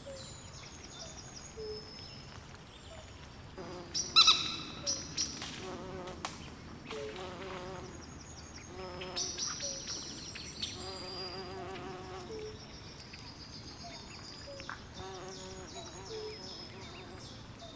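Night swamp chorus of insects and frogs: high, rapidly repeated insect chirps throughout, over short low frog calls and warbling frog trills. A louder burst of sharp calls comes about four seconds in.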